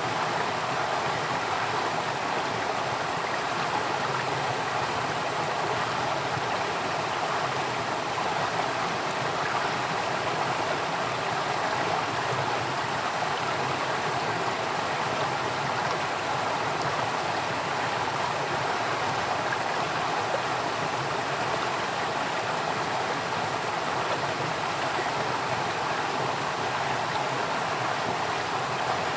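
Flowing water running steadily, an even rushing with no breaks or changes.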